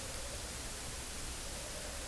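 Steady hiss of background noise in an outdoor field recording, with a faint wavering tone coming and going.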